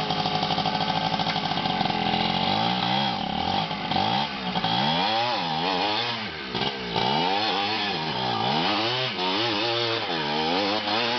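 Trail motorcycle engine running at a steady pitch, then revved up and down over and over, the pitch rising and falling about once a second.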